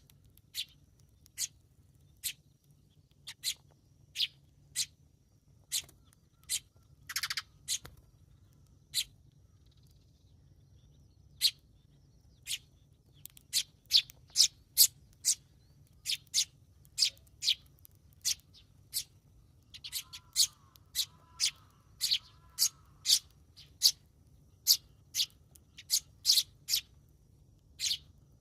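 Eurasian tree sparrows chirping: short, sharp single chirps at irregular intervals, coming thicker and faster in the second half.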